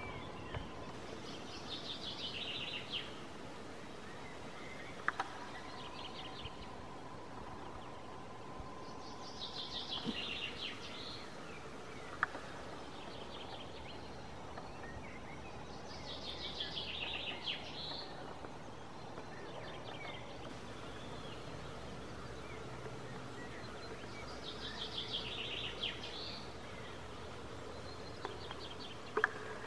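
A songbird repeating a short, fast, descending trilled phrase four times, about every seven to eight seconds, over faint steady outdoor background noise.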